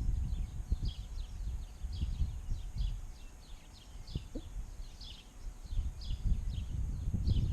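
Small birds chirping over and over, about two to three short high chirps a second, over a low rumble.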